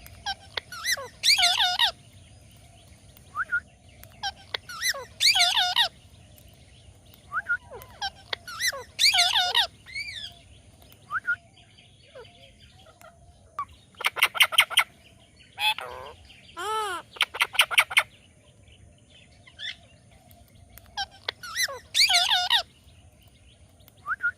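Indian ringneck parakeet calling: loud, harsh, wavering screeches that come every few seconds, with quick runs of short, rapidly repeated notes in between.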